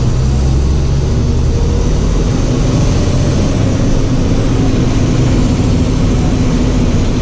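Box truck's engine running steadily while driving, with a continuous rush of wind and road noise.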